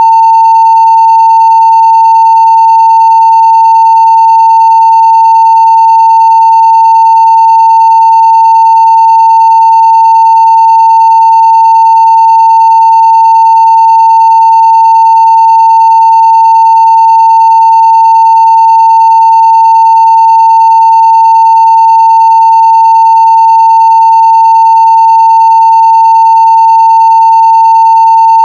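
Continuous 900 Hz sine-wave test tone at full scale (0 dB), held perfectly steady and very loud, with faint higher overtones above it.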